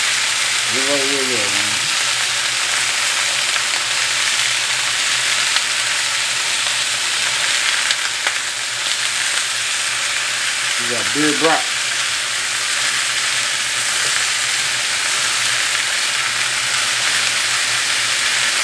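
Bratwurst and sliced onions frying in olive oil in a square copper-coloured skillet: a steady sizzle, with tongs stirring and turning the onions.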